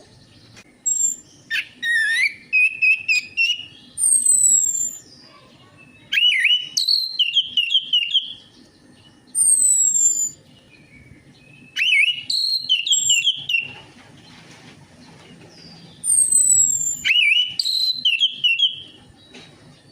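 Orange-headed thrush singing: four loud phrases of quick, warbling whistled notes, each about two seconds long, with high, thin descending whistles between them and short pauses between phrases.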